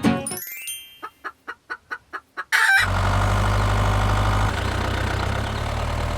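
A short run of about four quick pulses a second, a brief chicken cluck, then an engine idling steadily with a low hum that shifts slightly about halfway through.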